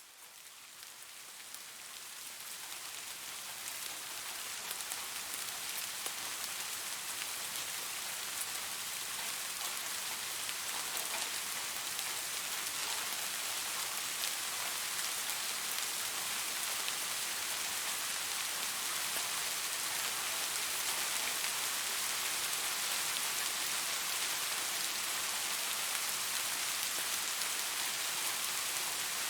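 Steady rain falling, an even hiss with many small drop ticks, fading in from silence over the first few seconds and then holding steady.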